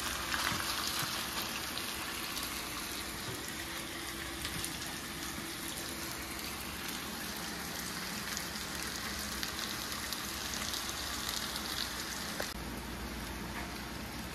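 Stir-fry sizzling in a hot pan, a steady hiss with scattered crackles.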